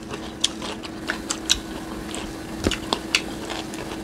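Close-up eating sounds: wet chewing and lip smacks, an irregular scatter of short clicks, over a faint steady hum.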